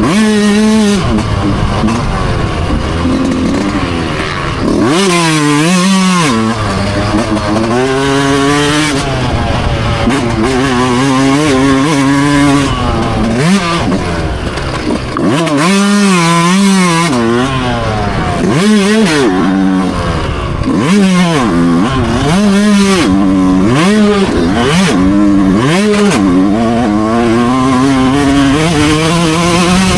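Dirt bike engine being ridden hard, revving up in pitch and dropping back again and again as the rider accelerates, shifts and rolls off the throttle.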